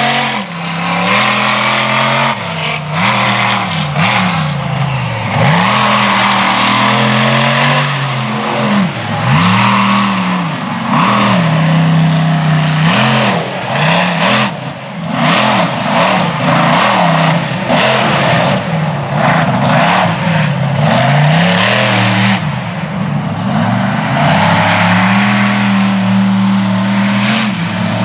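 Ramminator monster truck's supercharged V8 engine revving hard during a freestyle run, the throttle opened and closed over and over so the engine note swells up and drops back about a dozen times.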